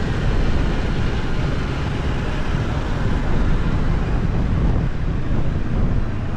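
Steady wind buffeting the microphone on a moving motorbike, over the bike's running and road noise.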